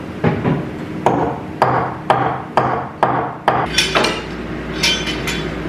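Repeated hammer blows on wood in a steady rhythm, about two a second, the last few sharper and brighter, as a joint is worked.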